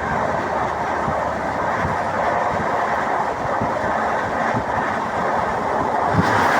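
Train in motion: steady rumble and rattle of a moving passenger coach, with irregular wheel knocks on the rails.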